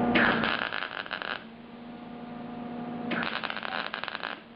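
Two welding tacks on a sheet-metal door patch, each a crackling arc lasting about a second, about three seconds apart. A steady electrical hum sits under and between them.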